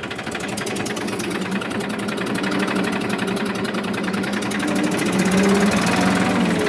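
Tractor engine running steadily while manoeuvring with a loaded gravel trolley, getting a little louder past the middle as it takes more throttle.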